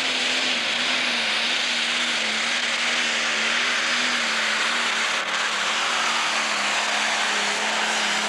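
Pro Stock pulling tractor's engine running flat out under full load as it drags the sled down the track. It holds a steady high-revving note that wavers only slightly, with a loud hiss over it.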